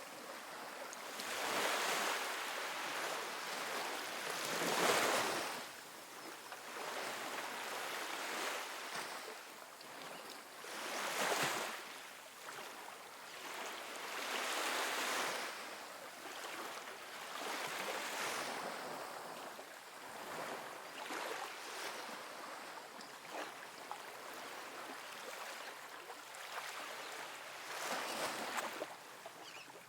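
Gentle ocean waves washing onto a sandy beach, each wave swelling into a soft splash and hiss of surf every few seconds, then drawing back.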